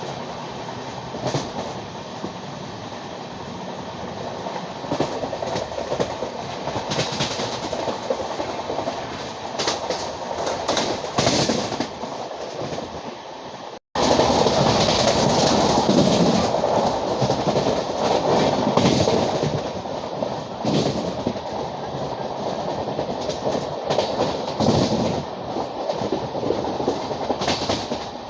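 A moving passenger train rumbling along the track, its wheels clattering over rail joints with scattered sharp clicks. The sound cuts out for an instant about halfway through and comes back louder.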